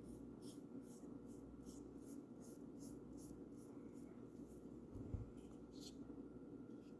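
Faint paintbrush strokes on a bird house: bristles brushing paint on in quick back-and-forth scratches, about two to three a second, thinning out after a few seconds. A soft low thump comes about five seconds in.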